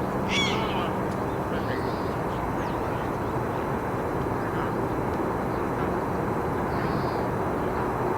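Steady low outdoor background rumble with a faint hum in it, and one short bird call about half a second in.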